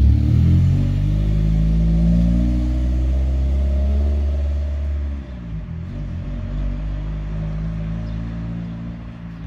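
Eagle Talon car driving off, its engine accelerating with rising pitch. After about five seconds it gets quieter and fades as it pulls away.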